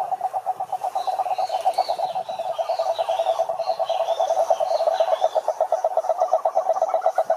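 A chorus of frogs calling together: a dense, fast, pulsing croak at roughly eight pulses a second. Higher chirping calls sit over it for a few seconds near the start.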